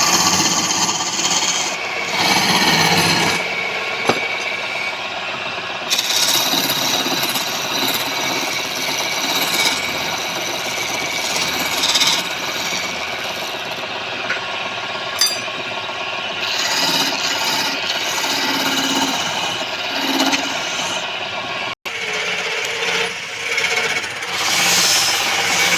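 A tool scraping against wood spinning on a woodturning lathe: a continuous scratchy rasping that swells and fades. It cuts out for an instant late on.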